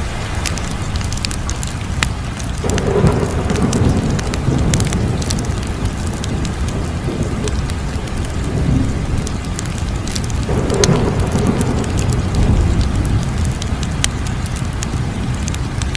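Crackling fire: frequent sharp pops and snaps over a low, steady rumble. The rumble swells twice, about three seconds in and again about eleven seconds in.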